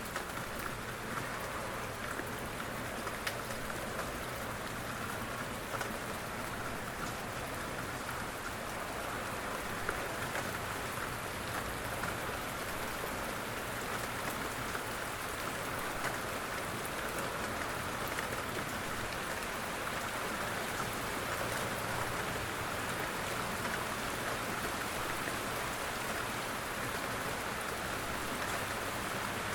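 Steady rain falling, an even hiss with scattered drips pattering on a surface.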